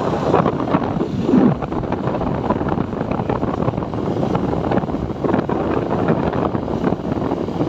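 Wind buffeting the microphone while a TVS Apache 4V motorcycle is ridden along, heard as a steady, rushing noise with no clear engine note standing out.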